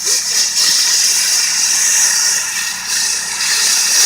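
Dustless blasting nozzle spraying a wet mix of crushed glass against a truck's painted steel body, stripping the paint: a loud, steady hiss.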